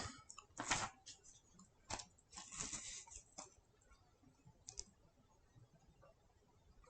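Near silence with a few faint, scattered clicks and soft short noises in the first half, then nothing.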